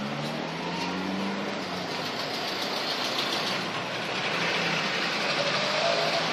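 Trabant 601's two-cylinder two-stroke engine running as the car drives slowly past, growing a little louder as it comes close near the end.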